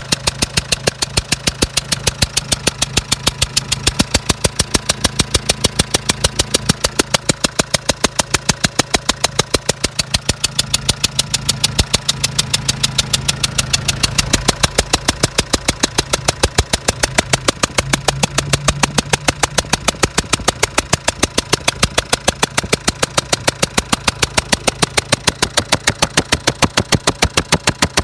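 Renault Trafic 1.9 diesel engine idling with a sharp, regular knock several times a second. It is a new knock that the owner cannot explain.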